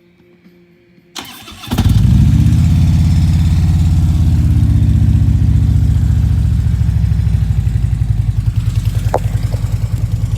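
Harley-Davidson Electra Glide V-twin being started: the starter cranks briefly about a second in, the engine catches and settles into a loud, steady idle with an even pulsing beat.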